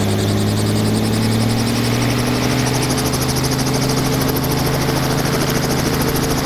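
Helicopter engine and rotor running steadily, with a fast, even rotor beat; the pitch rises slightly over the first few seconds.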